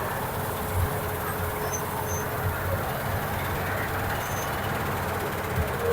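Engine of a farm machine at a wheat harvest running steadily, with a faint steady whine above its hum.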